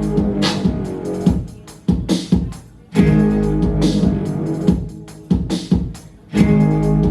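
Band playing an instrumental passage on an acoustic-style arrangement: guitar chords with drum hits, the chords struck hard and left to ring, then struck again every second or so.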